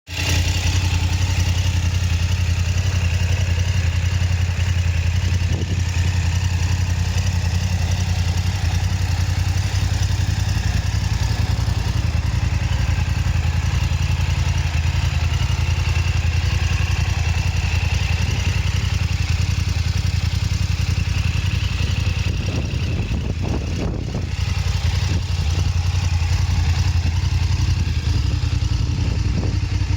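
BMW F850 GS parallel-twin engine idling steadily, with a brief slight dip in level about three-quarters of the way through.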